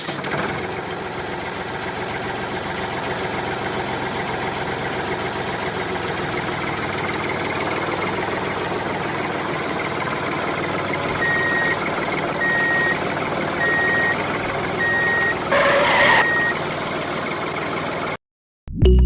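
Small engine of a model mini tractor running steadily. From about two-thirds of the way through, a high beep sounds about five times at even spacing, like a reversing alarm, with a brief louder burst near the last beeps.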